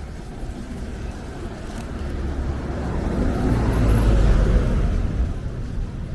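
A road vehicle passing close by, its sound building up, loudest about four seconds in, then fading away.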